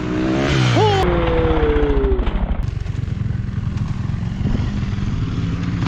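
Dirt bike engine revving hard: the pitch climbs, jumps up and slides back down, then settles into a fast, even low pulsing as the bike runs on.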